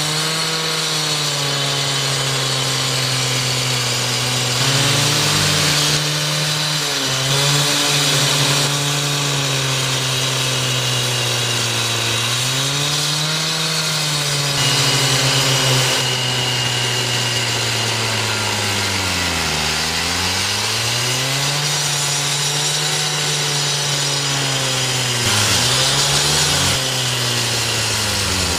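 Handheld concrete-cutting saw running, its motor pitch sagging and recovering again and again as the blade is loaded in the cut. Several times the sound grows louder and harsher for a second or two as the blade grinds through concrete or stone.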